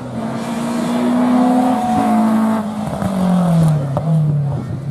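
Rally car engine running hard as the car passes at speed on a stage; its note holds high, then falls in pitch about three seconds in.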